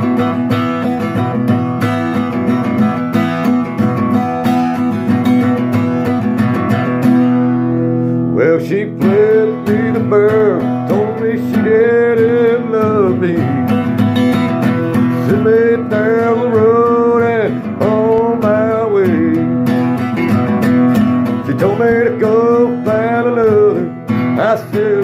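Country song played on acoustic guitar: steady chord strumming, with a wavering melody line coming in over it about eight seconds in.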